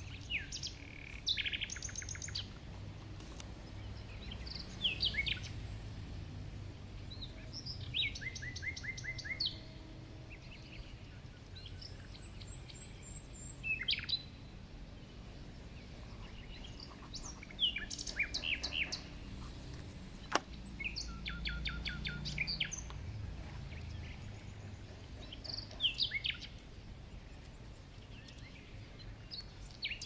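A songbird singing short phrases every three to four seconds, each a quick run of sharp repeated notes and brief downward sweeps, over a low steady rumble. One sharp click sounds about two-thirds of the way through.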